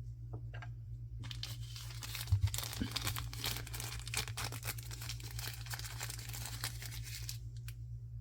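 Blind-box packaging being torn open and crinkled by hand, a dense crackling that starts about a second in and stops shortly before the end.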